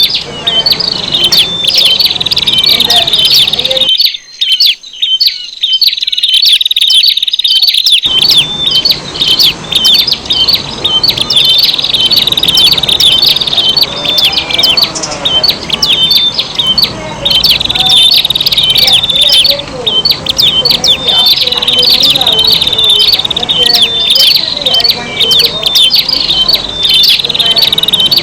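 Prenjak (prinia) birds calling noisily: fast, high, continuous chirping with rapid call trills. It is a lure recording that mixes several prenjak types' calls.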